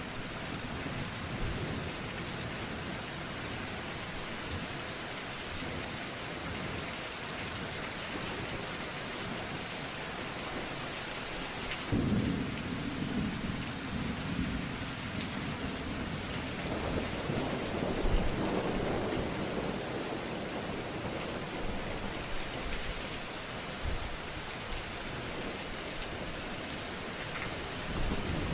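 Steady rain with rolls of thunder: a low rumble breaks in sharply about twelve seconds in, and another swells and peaks around eighteen seconds.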